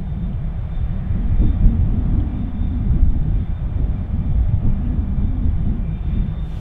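Mugunghwa passenger train running, a loud, steady low rumble.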